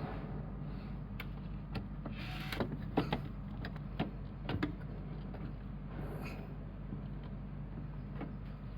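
A steady low hum, with a scattered series of short clicks and knocks over the first six seconds or so.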